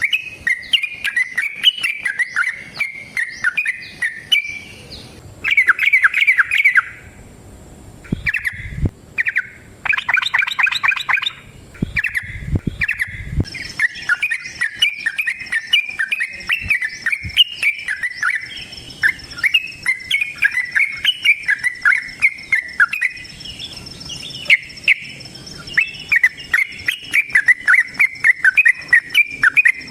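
Yellow-vented bulbul (trucukan) singing in long, rapid runs of chirps and trills, broken by a couple of short pauses. A faint steady high tone joins about halfway through.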